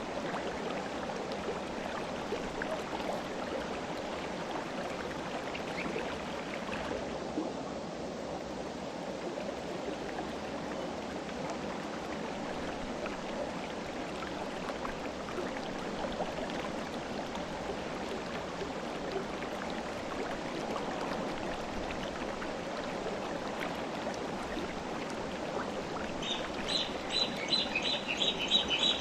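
River water flowing with a steady rushing. Near the end a bird starts calling in quick, repeated high chirps.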